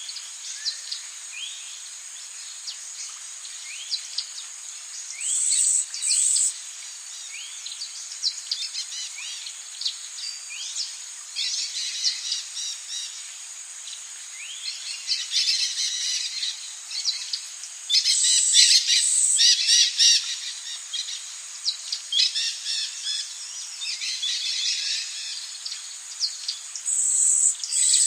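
Rainforest ambience: many birds calling with short rising chirps and trills over a steady high insect drone. Louder buzzing bursts come about five seconds in, around eighteen to twenty seconds, and again near the end.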